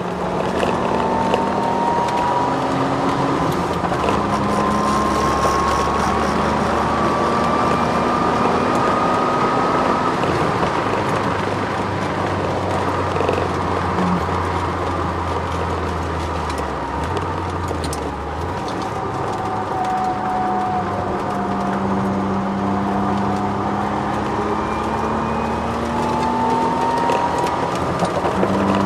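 Twin-turbo Ford Sierra XR4x4 at speed on track, heard from inside the cabin: steady engine and road noise with a high whine that slowly rises and falls with speed. The owner puts the whine down to the solid diff mount and fully poly-bushed drivetrain.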